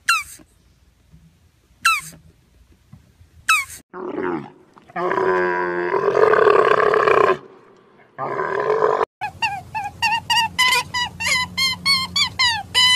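A series of animal calls: a few short, high, falling chirps about two seconds apart, then a loud, drawn-out groaning bellow lasting about three seconds, which is the loudest part and is typical of a camel, with a shorter one after it. From about nine seconds in come rapid chirps, about three a second.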